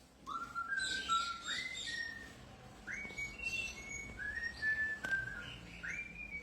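A parrot whistling a tune: a string of short, clear, held notes that step up and down in pitch, several of them entered with a quick upward slide.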